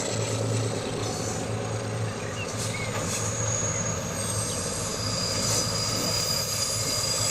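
HO scale model train running on the layout's track: a steady low motor hum with rolling noise, and a thin high wheel squeal that grows stronger about halfway through.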